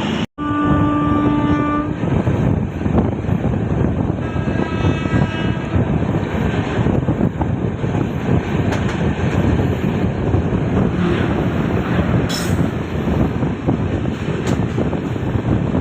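Paschim Superfast Express running at speed, with a steady rumble of wheels on track. Just after a momentary dropout, a train horn sounds for about a second and a half. A second, fainter horn follows around four to six seconds in.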